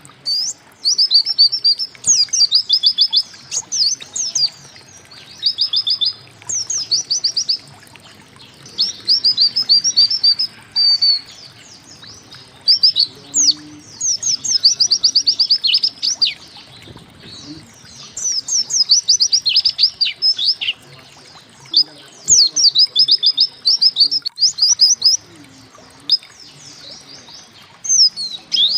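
White-eye (pleci) singing: phrases of rapid, high, down-slurred chirping notes, each lasting one to two seconds, separated by short pauses.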